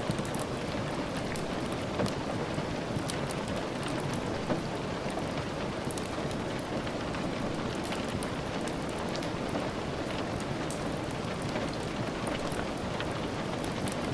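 Steady rain falling, with scattered sharp clicks and crackles over it.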